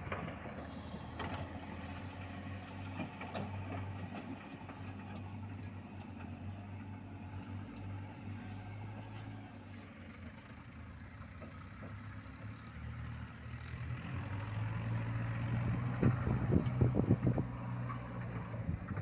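Heavy vehicle engine running steadily, growing louder over the last few seconds, with a few short knocks near the end.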